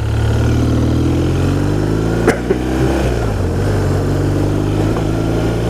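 BMW R1200RT's flat-twin boxer engine pulling away and gathering speed, its pitch rising over the first two seconds, with a sharp click about two seconds in.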